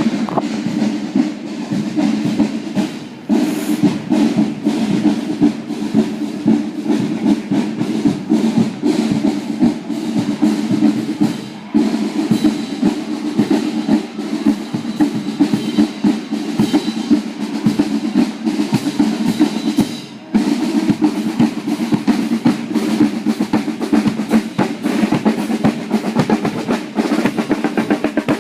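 Marching drums in a street parade: snare drums playing rapid rolls and cadences with bass drum, over a steady sustained low tone, pausing briefly three times.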